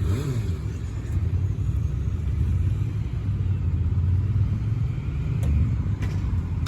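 Motorcycle engine idling with a steady low rumble, a sound that comes across as a bit underwhelming.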